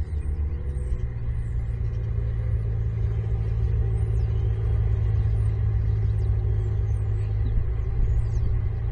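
A low, steady engine rumble whose pitch drops slightly about half a second in and then holds. Faint high bird chirps sound over it.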